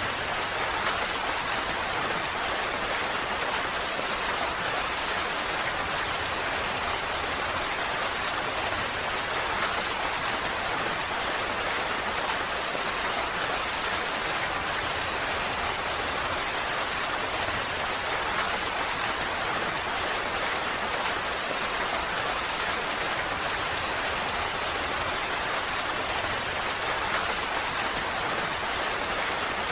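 Steady rain falling, an even hiss with scattered drop ticks and no pauses.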